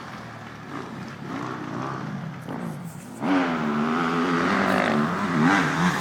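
Dirt bike engines revving, the pitch rising and falling with the throttle. About three seconds in, a bike's engine suddenly gets much louder and keeps revving up and down.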